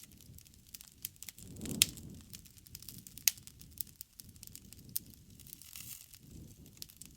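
Campfire burning: a low rush of flames under irregular crackling and sharp pops, the loudest pops just under two seconds in and a little after three seconds in.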